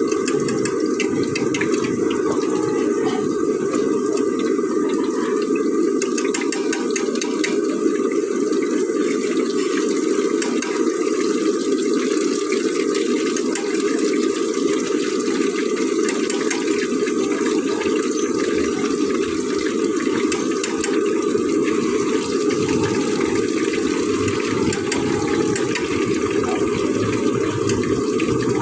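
Chicken trachea deep-frying in hot oil: a steady bubbling hiss with scattered sharp crackles, over a constant low rush.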